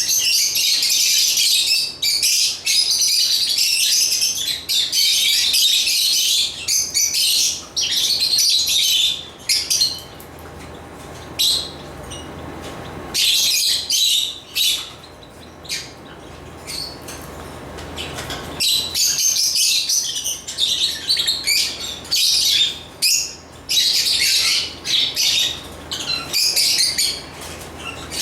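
African lovebirds chirping and chattering, high-pitched and busy in long runs. The chatter thins to scattered single chirps for several seconds around the middle, then picks up again.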